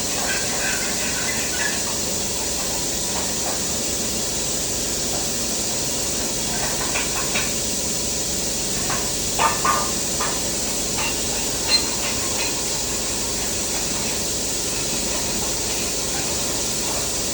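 Welding arc hissing steadily through a long pass, with a few short clicks about halfway through.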